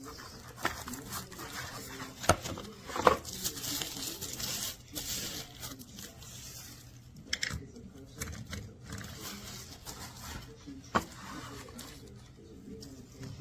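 Packaging and plastic parts being handled, rustling and crinkling, with a few sharp knocks about two, three and eleven seconds in.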